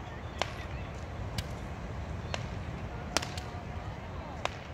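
Small handheld fireworks (폭죽) bursting in the air with sharp cracks, about six in all, roughly one a second, with two in quick succession a little past three seconds. Under them runs a steady low rumble of surf.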